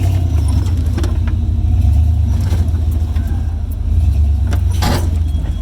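Off-road Jeep engine running low and steady as it crawls over rough trail ground, with scattered clicks and knocks and a brief harsh noise near the end.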